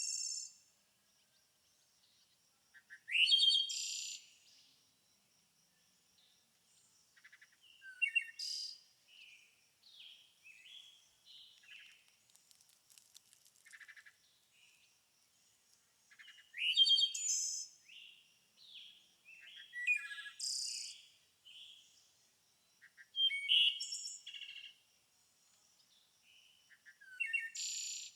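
Songbirds singing outdoors: loud, quick song phrases of about a second each come every few seconds, with softer chirps in between and a faint, steady high-pitched note underneath.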